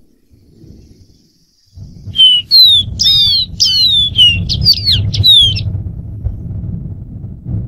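Dark-throated seedeater singing a quick phrase of about a dozen clear, falling whistled notes, starting about two seconds in and stopping about three and a half seconds later. A low rumble runs underneath.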